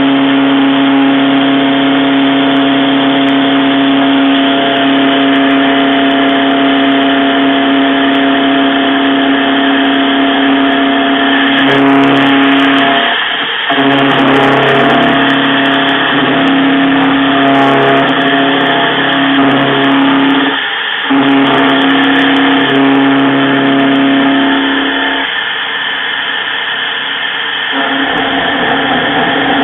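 Metalworking machine tool running steadily while machining guide seats into a steel slide plate: a loud, even motor hum with a high steady tone over it. The sound drops out briefly twice, about 13 and 21 seconds in, and eases off for a few seconds near the end.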